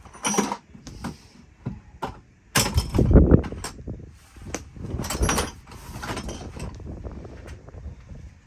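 Knocks, clanks and scraping of hand tools working metal fittings on the boat's engine as a fitting is broken loose, in irregular bursts. The loudest clatter comes about three seconds in and another about five seconds in.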